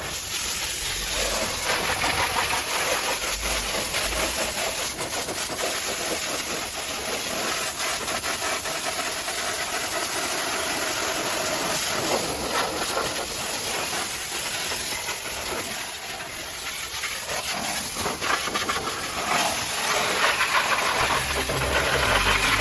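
High-pressure washer spray hissing steadily against a vehicle's body.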